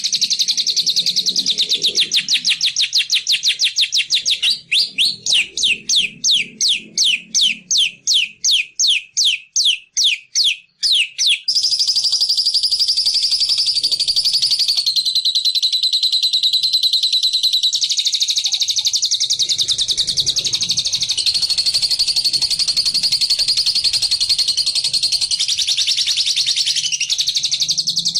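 Birdsong played as a lure: a loud, high, rapid trill that breaks in the middle into a run of separate sweeping notes, about three a second, then goes back to a steady trill.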